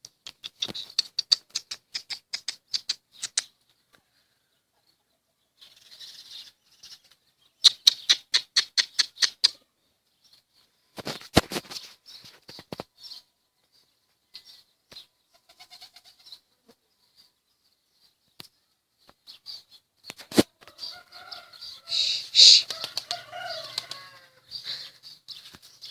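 Pigeons flapping their wings: several quick runs of sharp wing beats, about six a second, with bird calls mixed in near the end.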